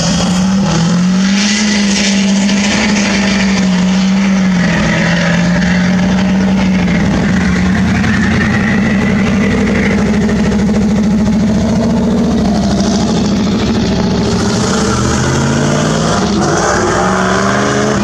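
Hot rod car engines running loud and steady as the cars pull away from the junction, with a pitch that shifts in small steps. Near the end the revs rise as another car accelerates.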